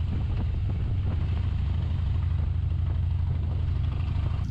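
Harley-Davidson Heritage Softail Classic's V-twin engine running steadily, a low, even pulsing note.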